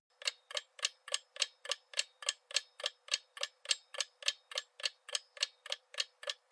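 Countdown timer sound effect: an even clock-like ticking, about three and a half ticks a second.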